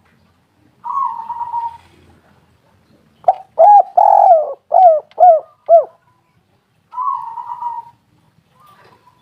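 Spotted dove calling: a short rolling coo, then a run of about six cooing notes with a longer one in the middle, then another rolling coo. It is the dove's repeated song, the call used as a lure to get other doves to sing.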